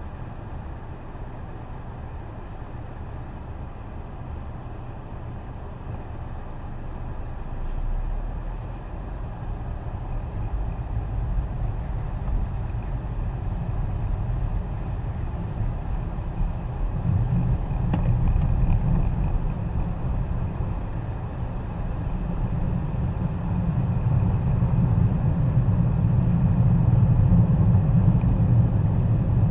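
Car cabin road noise while driving on a snowy road: a steady low rumble of engine and tyres that grows louder as the car speeds up, with a few faint ticks.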